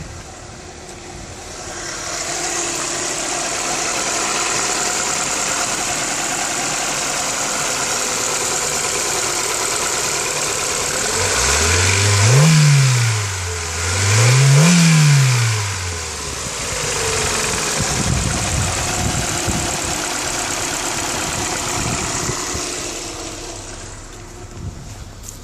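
Ford Puma's 1.7-litre four-cylinder petrol engine starting from cold about two seconds in and idling steadily. Near the middle it is revved twice, each rev rising and falling in pitch, then settles back to idle and goes quiet near the end.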